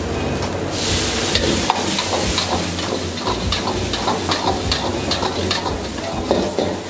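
Food frying and sizzling in a hot pan while a metal spatula stirs and scrapes against it with short clinks; the sizzling hiss swells about a second in.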